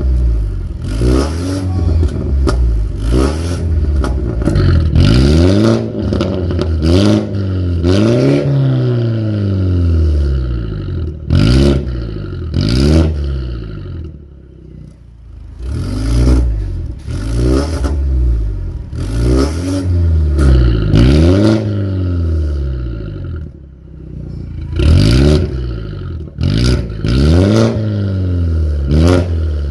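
BMW F30 320i's turbocharged four-cylinder engine blipped through a valved aftermarket stainless full exhaust system, revving up and dropping back over and over in short revs. It falls back to idle briefly about halfway through and again a few seconds before the end.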